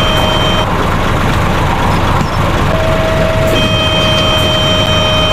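Steady truck engine noise, most likely a sound effect laid over the toy cement mixer truck, with thin steady tones that cut out and come back in again.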